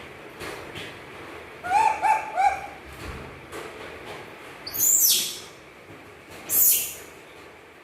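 Baby monkey calling: a quick run of four short, high coos about two seconds in, then a high falling squeal near the middle and a short, harsh high sound near the end.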